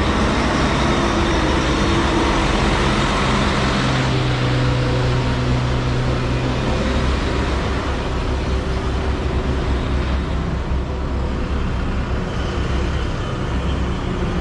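Steady low engine rumble of an idling vehicle, with a second steady engine hum that stops about seven seconds in.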